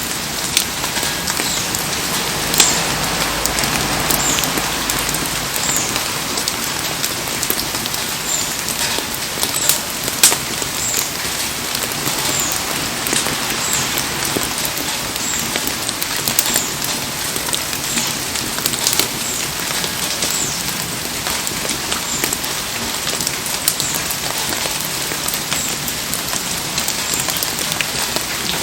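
Heavy rain falling steadily, with scattered sharp ticks and pops through the constant hiss.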